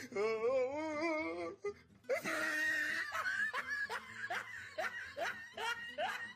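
Laughter: a wavering pitched call for the first second and a half, then a run of short laughing bursts, about three a second, over music.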